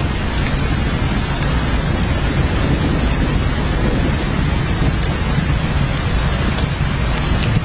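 Steady rain, with a deep low rumble underneath and scattered sharp ticks of individual drops.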